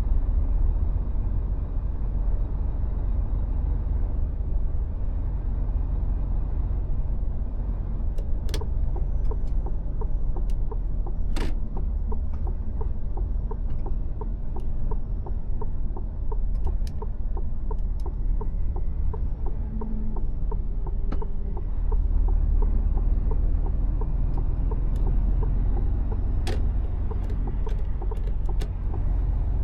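Mercedes Actros truck running downhill: a steady, deep rumble of diesel engine and road noise, with a few sharp clicks.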